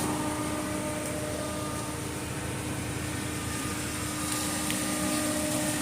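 Steady mechanical hum of a running car, with a constant droning tone.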